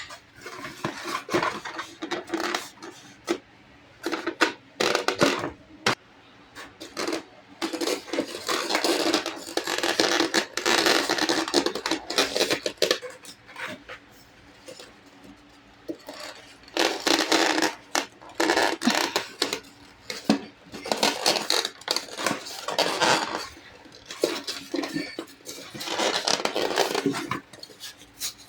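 Kitchen handling sounds: dishes and utensils clinking and knocking against each other, with stretches of scraping and rubbing.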